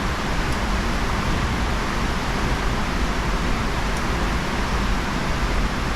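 Steady rushing noise with a low, unsteady rumble, with two tiny faint clicks about half a second and four seconds in.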